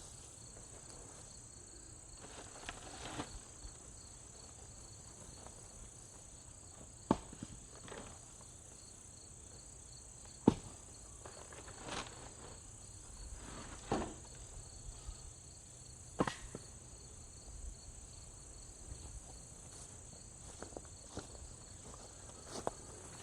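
Steady high-pitched chirring of insects in late-summer weeds, with a few sharp knocks and rustles scattered through.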